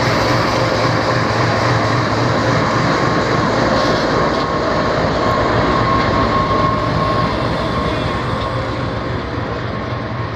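Karakoram Express passenger train pulling out of a station, its coaches rolling past with steady rail noise and a faint steady whine, the sound easing off slightly near the end.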